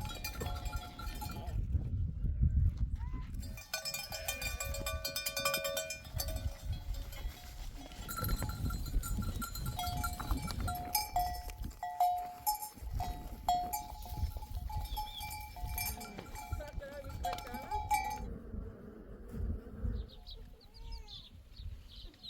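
Bells hung on a flock of sheep and goats, clanking and ringing unevenly as the animals move, over a low rumbling noise, with a few faint bleats near the end.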